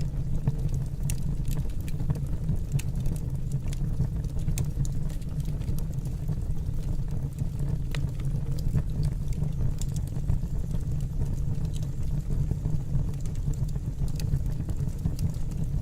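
Wood fire burning in a fireplace: a steady low rumble with scattered faint crackles and pops.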